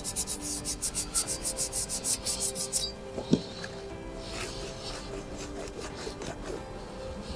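Scotch-Brite pad scrubbing the oil cooler gasket mating surface in quick, rhythmic back-and-forth strokes that stop about three seconds in, followed by a single short knock.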